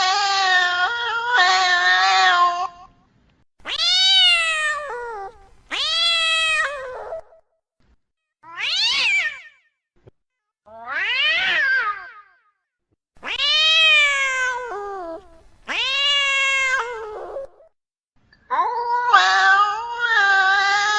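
Domestic cat in heat yowling, the caterwauling call of a cat in season. It gives a string of about eight long, drawn-out calls, one every two seconds or so, each swelling up and then falling away in pitch, with brief silences between.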